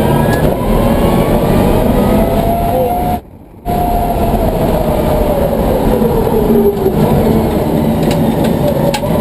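Electric motor whine from the electric 1995 BMW M3 race car, driven by twin Warp 11-inch DC motors, under hard acceleration over a heavy rush of road and tyre noise. The whine climbs in pitch, the sound cuts out briefly about three seconds in, and the whine then sinks lower as the car eases off.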